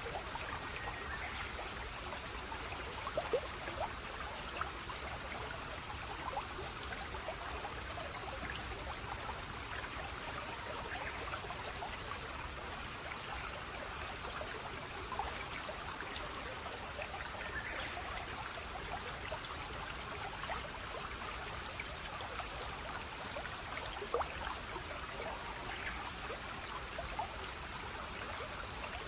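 Small stream of water trickling and burbling steadily, with a few brief louder splashes, about three seconds in and again near 24 seconds.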